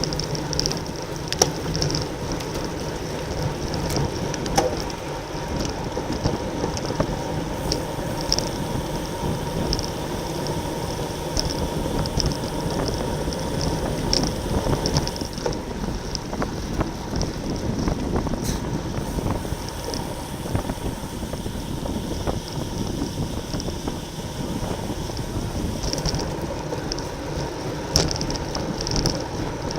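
Wind rushing over the microphone of a camera on a moving road bike, with steady rumble and a few sharp clicks.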